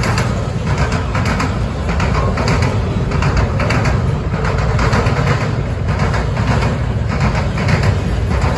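Double-stack container well cars of a freight train rolling past: a loud, steady rumble of steel wheels on the rails, with continual clatter over the track.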